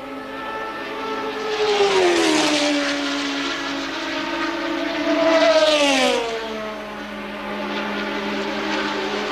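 1983 Formula One race cars passing at speed: two pass-bys, each engine note rising in loudness and then dropping sharply in pitch as the car goes by, the first about two seconds in and the second about six seconds in.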